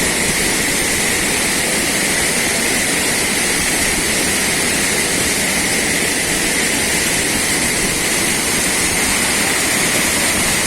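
Waterfall pouring steadily: a constant, loud rushing of falling water with no breaks.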